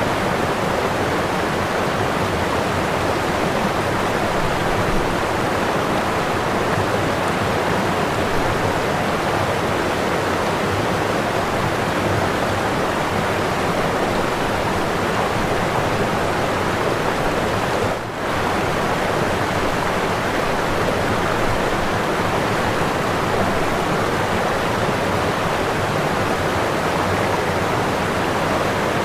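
Whitewater of a waterfall rushing in a steady, dense roar of water, dipping briefly about two-thirds of the way through.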